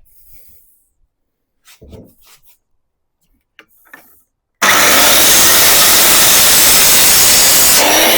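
Light knocks of timber being handled, then an electric power saw suddenly starts cutting through wood about halfway in, loud and steady. Near the end the cut ends and the motor starts to wind down.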